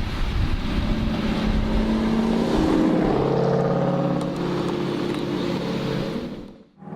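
V8 muscle car engine and exhaust running hard under acceleration, its pitch holding and then climbing; the sound cuts off abruptly near the end.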